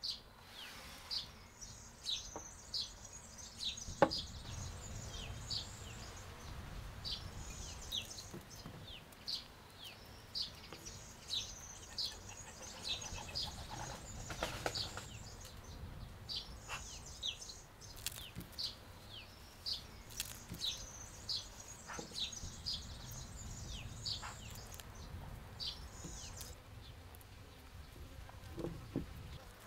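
A songbird singing: runs of quick, high chirps, each run a few seconds long with short pauses between, over a low rumble. A sharp tap about four seconds in.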